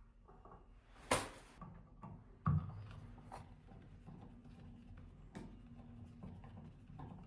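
Two sharp knocks about a second and a half apart, the second heavier and duller, followed by faint scattered clicks and rustling over a low rumble.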